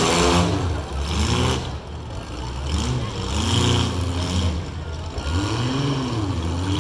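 Engines of modified compact demolition-derby cars running and revving, the pitch rising and falling several times over a steady low rumble.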